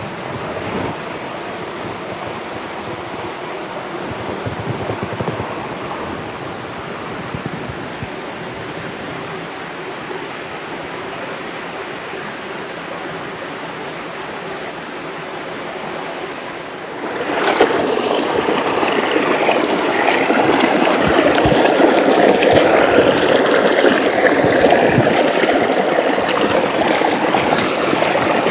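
Steady rushing of a rainforest river over rocks, which turns suddenly louder and fuller about two-thirds of the way through.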